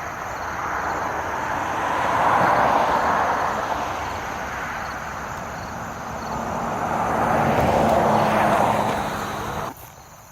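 Two vehicles passing one after the other, each a swell of road and tyre noise that builds and fades; the sound cuts off abruptly near the end.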